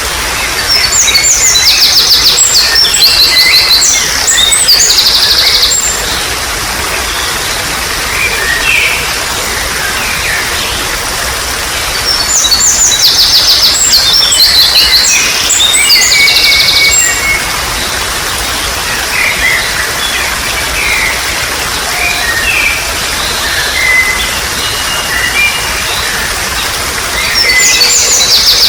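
A songbird singing loud, rapid, high trilled phrases three times, about twelve seconds apart, with other birds chirping between them, over a steady hiss of trickling water.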